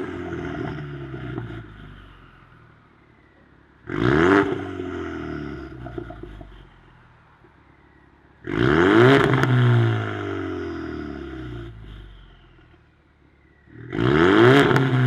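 Ford Mustang 2.3 EcoBoost turbocharged four-cylinder revved through a valved aftermarket exhaust: three throttle blips, the middle one held longest, each rising in pitch and falling back to idle.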